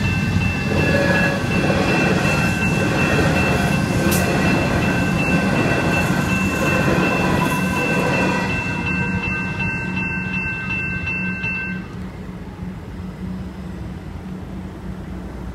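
Comeng electric multiple unit train passing over a level crossing, loud and then fading. The crossing's electronic bells ring steadily alongside it and stop about twelve seconds in, as the booms begin to lift.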